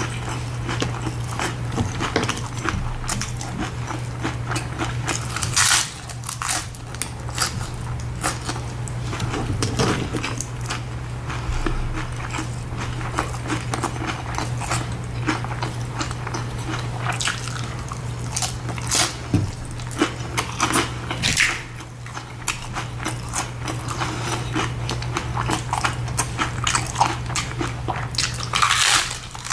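Tacos being bitten and chewed close to the microphone, in many quick clicking mouth sounds, with a few louder bites: one about six seconds in and one near the end. A steady low hum underneath.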